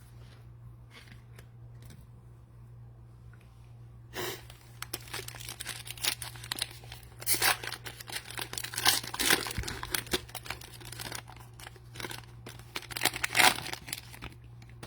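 Cellophane wrapper of a trading-card cello pack being torn open and crinkled. The wrapper noise comes in irregular crackling bursts, starting about four seconds in after a few faint ticks.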